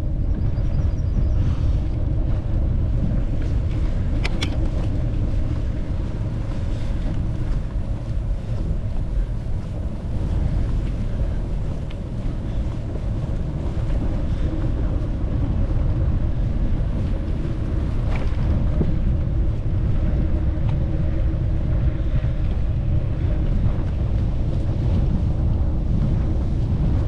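Wind buffeting the microphone: a steady low rumble that swells a little and eases, with no break.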